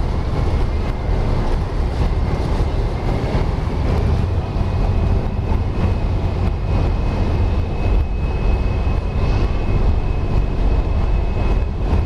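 Express river boat's engine running, a loud, steady deep rumble with a thin, high, steady whine that steps up slightly in pitch about four seconds in.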